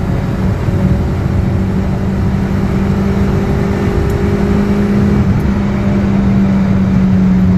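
Car engine pulling hard at high revs, around 6,000 rpm, heard from inside the cabin as the car accelerates in a higher gear. Its note is steady and rises slowly in pitch as speed builds.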